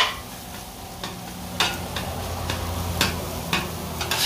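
Ground beef, wet with added water and taco seasoning, sizzling on a hot Blackstone steel flat-top griddle. A metal spatula scrapes and taps the griddle surface about six times as the meat is mixed.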